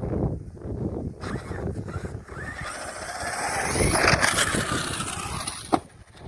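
Arrma Kraton 6S RC monster truck running, its brushless motor whining up and down in pitch over rough tyre and drivetrain noise, with a sharp knock near the end.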